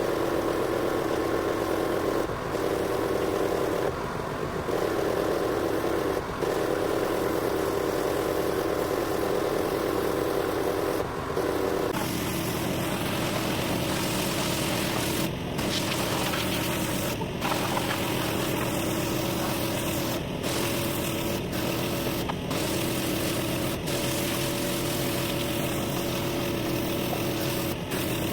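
Pressure washer running steadily, its motor hum mixed with the hiss of the water spray. The sound changes character about twelve seconds in, then breaks off briefly several times.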